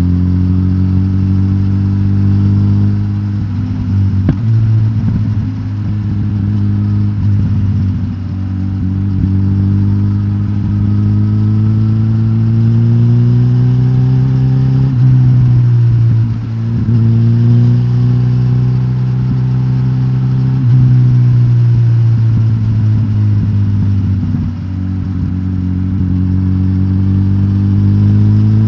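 Suzuki GSX-S1000GT's K5 inline-four engine, breathing through a de-catted stock exhaust, running at moderate revs. Its pitch climbs slowly and drops back several times.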